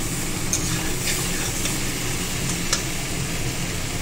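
Cauliflower and potato pieces in spice paste sizzling in a kadai while a metal spatula stirs them, with a few sharp clinks of the spatula against the pan. The masala has been fried down until it is well cooked.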